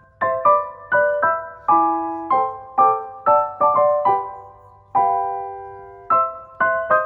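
Background piano music: single struck notes and chords in a slow, gentle melody, each note ringing out and fading.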